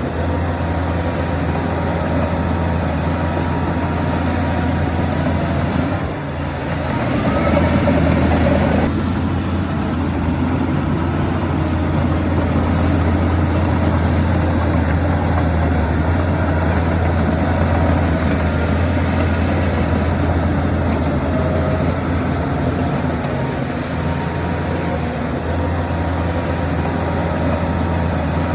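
Heavy diesel engines of earthmoving machinery running steadily, with a deep low hum. About six seconds in the sound dips, then swells louder and rougher for a couple of seconds before settling back.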